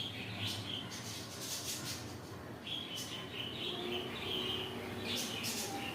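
Small birds chirping in quick, repeated short calls, over a steady low background hum.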